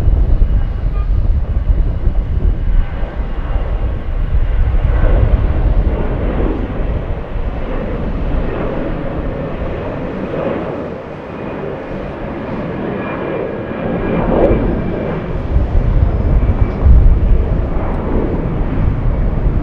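Jet airliner's engines passing close by: a loud, continuous rushing noise with a deep rumble and faint whining tones, swelling and easing a few times.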